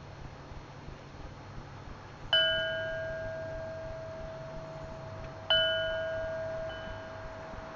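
A bell-like metal chime struck twice, about three seconds apart, each strike ringing clearly and then fading.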